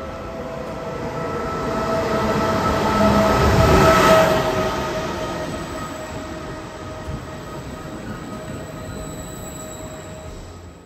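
Double-deck regional electric train pulling into the platform. Its rumble grows to its loudest about four seconds in as the coaches pass close by, then eases off, with steady whining tones over it throughout.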